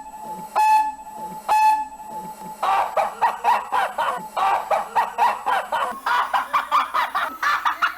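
A steam train whistle gives short repeated toots, about one a second, for the first couple of seconds. It then gives way to a fast, stuttering run of chicken-like clucks, about five a second.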